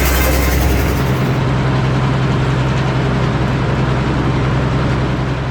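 Antique Frick circular sawmill and its power unit running loud and steady. The high hiss of the blade fades out about a second in, leaving the engine's steady low drone.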